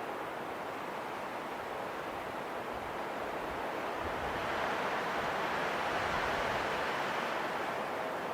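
Wind blowing steadily, swelling into a stronger gust about halfway through and easing again near the end.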